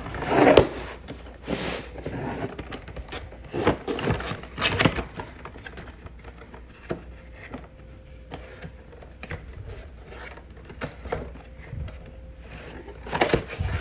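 Scattered scrapes, rustles and clicks of a new toilet fill valve and its parts being handled, with a few sharper knocks about a second in and near the end.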